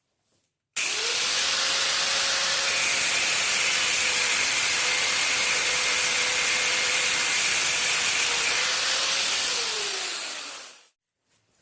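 An electric power tool running steadily with a loud hiss and a steady whine. It starts abruptly about a second in, then is switched off near the end and winds down, its pitch sliding lower as it stops.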